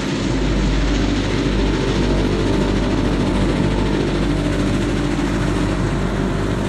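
Passenger train running, heard from inside the carriage: a loud, steady low rumble of the moving train.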